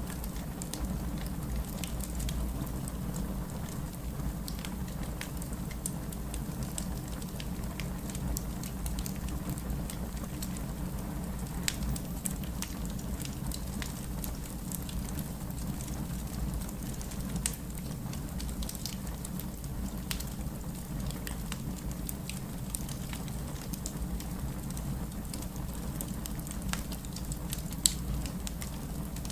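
Wood fire crackling in a fireplace: a steady low rumble of flames under frequent small crackles, with a few louder pops, the sharpest near the end.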